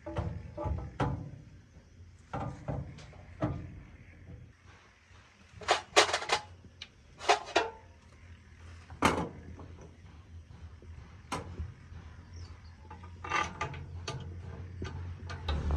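Irregular knocks and ringing metallic clinks, as of metal tools and parts being picked up, set down and handled; the loudest clinks come about six, seven and nine seconds in.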